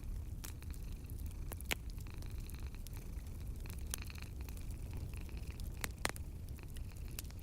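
Wood fire in a fireplace crackling: scattered small snaps and pops, with two sharper pops at about two seconds and six seconds in, over a steady low rumble.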